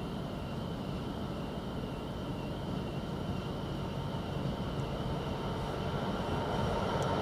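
GBRf Class 66 diesel-electric freight locomotive (EMD two-stroke diesel) approaching through the station without stopping, hauling a freight train. Its engine and the train's rumble grow steadily louder, with a steady high whine above.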